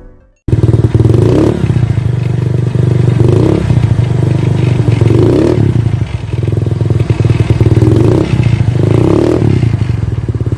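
Suzuki Spin scooter engine running steadily through its exhaust, starting suddenly about half a second in, with brief swells in the sound every couple of seconds.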